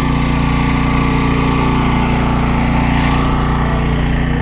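Motorcycle engine idling steadily, a constant low running note with no change in revs.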